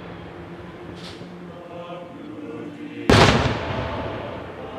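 Fireworks show: one loud aerial shell burst about three seconds in, ringing out and fading over about a second. Before it there is a fainter fizzing crackle about a second in.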